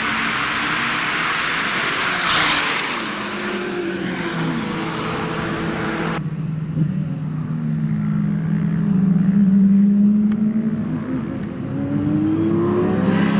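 Porsche 997 Turbo's twin-turbo flat-six running loud through Milltek straight pipes, the engine note climbing and falling with the revs. There is a brief loud rush of noise about two seconds in. After an abrupt change about six seconds in, the note climbs to its loudest about ten seconds in, drops, and climbs again near the end.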